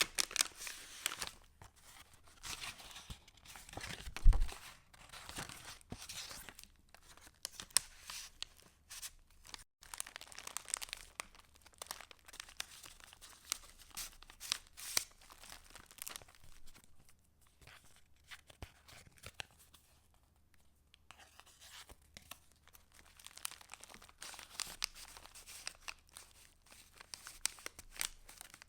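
Paper rustling and crinkling as the pages of a handmade junk journal are handled and turned, in irregular crackles with a brief quieter pause past the middle. A single thump about four seconds in is the loudest sound.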